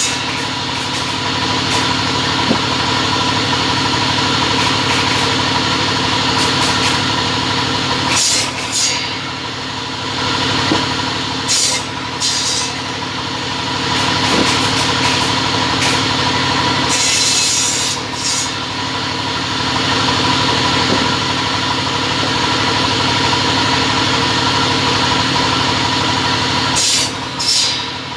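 Double-head cutting saw running steadily with a constant hum, with short hissing cutting passes about 8, 12, 17 and 27 seconds in.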